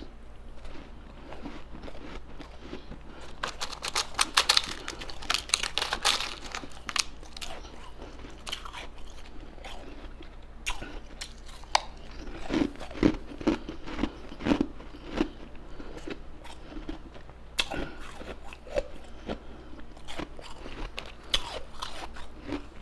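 Close-up crunching and chewing of ice in the mouth, a rapid run of sharp crunches about 4 to 7 seconds in and another cluster of heavier bites around 12 to 15 seconds, with softer chewing between.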